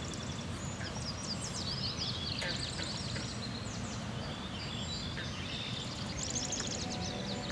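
Small birds chirping and twittering in many quick high notes, some sweeping down in pitch, over a steady low rumble.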